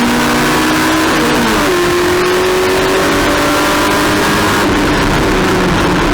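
Race car engine running hard under load, dropping in pitch at a gear change about a second and a half in, then climbing slowly again as the car accelerates.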